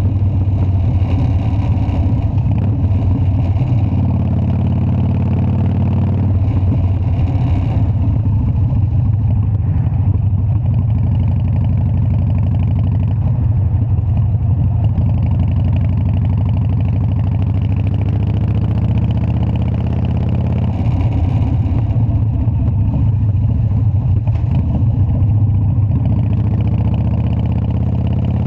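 Harley-Davidson Dyna's air-cooled V-twin engine running at a steady, even pace with no sharp revving.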